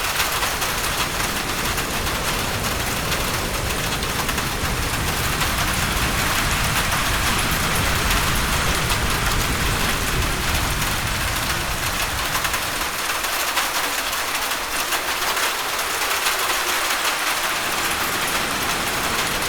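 Steady heavy rain hitting a roof, a dense even patter, with a low rumble underneath that drops away about two-thirds of the way through.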